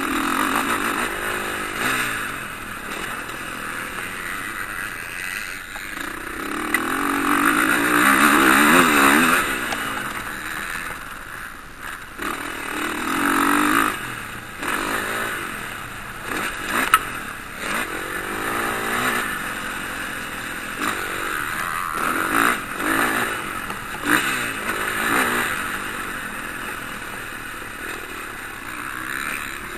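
Motocross bikes racing, their engines revving up and down as they pass in repeated swells; the loudest pass comes about eight to nine seconds in.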